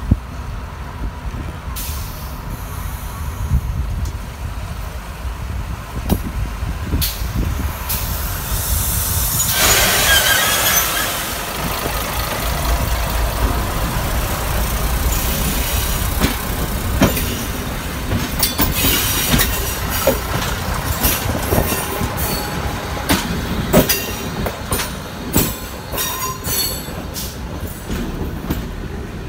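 Italian ALn 668 diesel railcars: a steady low engine rumble, then the railcar moving along the track. In the second half its wheels squeal and click sharply over the rail joints.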